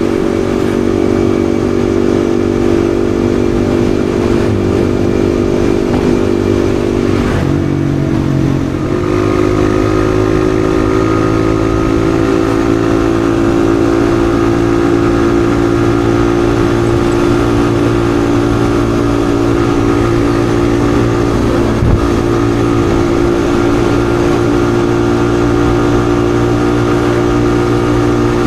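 Yamaha XSR155's single-cylinder 155 cc engine running at a steady riding pace. The engine note dips and then picks up again about eight seconds in.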